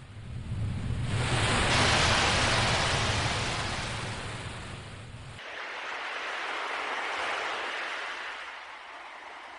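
Ocean waves washing in: two slow swells of surf, the first building about a second in and fading, the second rising after the middle, under a low rumble that stops abruptly partway through.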